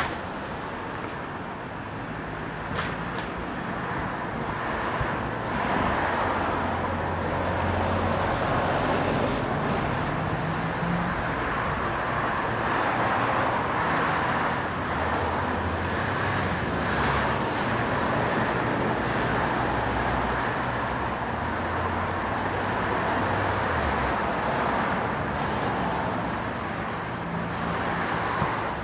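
Road traffic passing: a continuous rush of vehicles with a low engine hum, growing louder about five seconds in.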